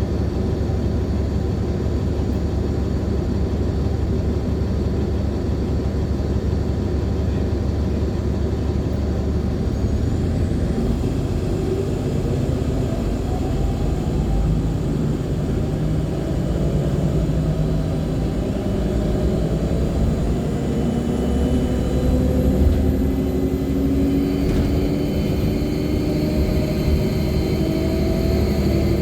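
Drivetrain of a 2014 NOVA Bus LFS articulated hybrid bus (Cummins ISL9 diesel, Allison H50 EP hybrid drive), heard from inside the cabin. It rumbles steadily at first, then about ten seconds in starts pulling away, with whines that rise slowly in pitch as the bus gathers speed, a thin high whine climbing in the last several seconds.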